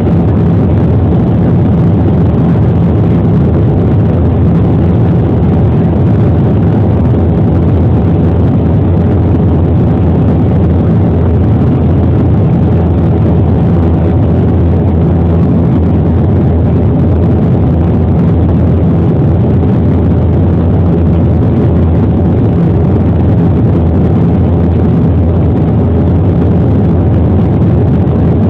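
Airliner cabin noise: the steady, loud low rumble of the jet's engines and airflow during the approach, with no change in level.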